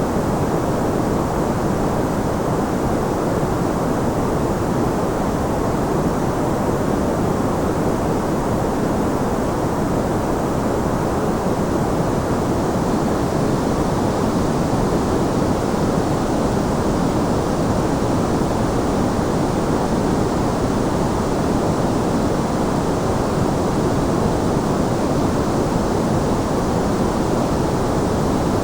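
Steady white noise of the kind played for sleep: an even, unchanging rushing hiss weighted toward the low end, with little top.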